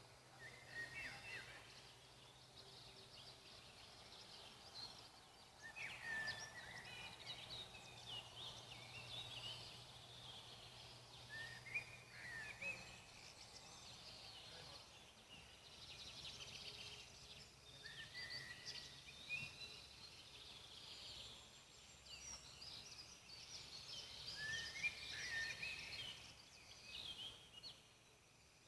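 Faint birdsong: several small birds chirping and twittering in short, gliding calls, with a few sharp crackles from a campfire.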